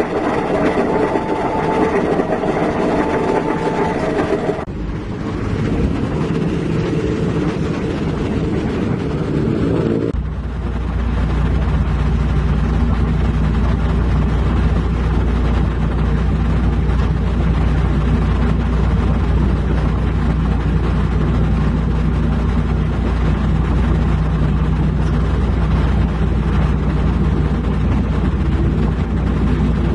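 Heavy diesel construction-machinery engines running. The sound changes abruptly twice in the first ten seconds, then settles into a steady low engine drone.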